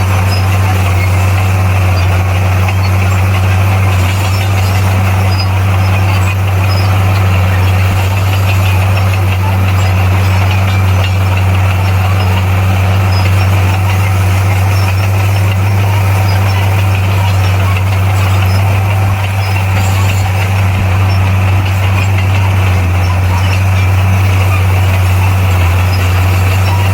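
Heavy diesel engine of earth-moving equipment, a bulldozer's, running steadily at an even speed with a constant low hum and no revving.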